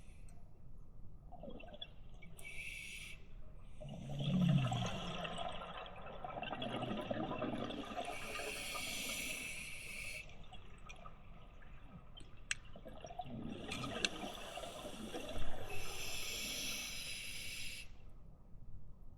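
Scuba diver breathing through a regulator underwater: twice, a gurgling rush of exhaled bubbles is followed by the hiss of the demand valve on the next breath.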